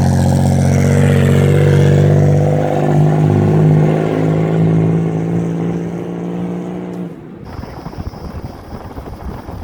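Turbocharged V6 engine of a minivan running hard under load at a near-steady pitch, then cutting off abruptly about seven seconds in as the throttle closes, leaving rough wind and road noise.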